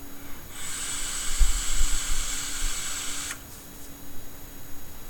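A drag on a vape's dripping atomizer: a steady hiss of about three seconds that cuts off suddenly.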